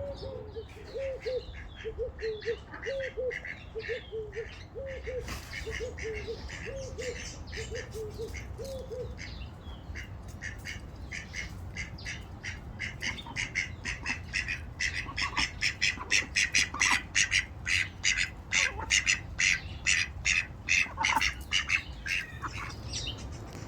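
Birds calling: a repeated series of low, short calls for the first third, then a loud, rapid run of harsh squawking notes, about three or four a second, building from the middle onward.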